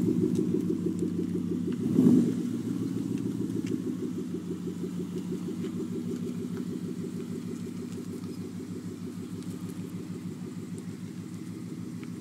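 2011 Ford Mustang GT's 5.0-litre V8 running through a muffler-delete axle-back exhaust with a steady, even, low pulsing note. There is a short rise in engine sound about two seconds in, then it grows gradually fainter.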